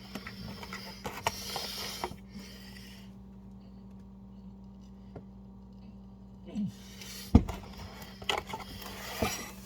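A person's breathing and throat noises, hissy breaths and short sniffs and snorts, with a sharp knock about two thirds of the way through.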